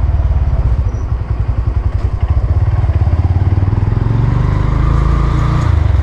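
Motorcycle engine running at low revs, heard from the rider's seat as the bike rolls downhill on light throttle; a steady low putter that eases off about a second in and then picks up again.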